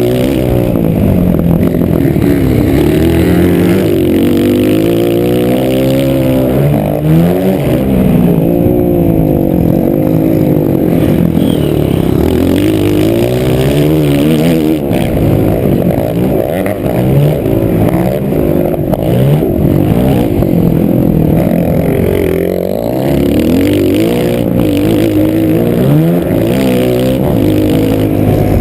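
Motocross bike engine revving up and down repeatedly through the gears, heard close up from an onboard GoPro, with occasional clatter.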